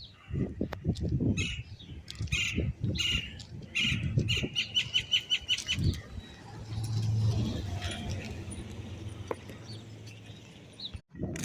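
Birds chirping, with a quick run of repeated chirps about four to six seconds in, over low fluttering thumps like wingbeats. From about six seconds a low steady hum takes over, and the birds fall quieter.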